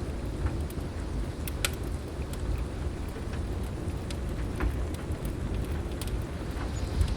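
Steady heavy rain over a low continuous rumble of storm, with sharp pops and crackles from a wood fire scattered through, a dozen or so of them.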